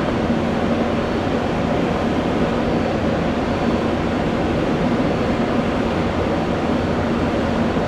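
Steady jet engine noise from airliners at the airport: an even, unbroken rush with a faint steady hum underneath.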